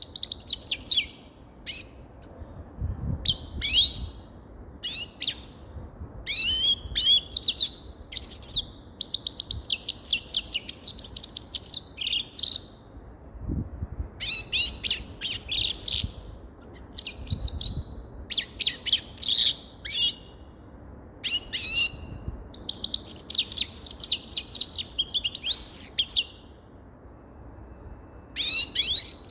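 Grey-headed goldfinch singing: quick twittering phrases with fast buzzy trills, broken by short pauses.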